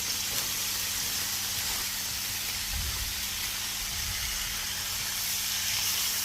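Spaghetti, sauce, ground beef and peppers sizzling steadily on a hot Blackstone flat-top griddle, with a few low rumbles about three seconds in.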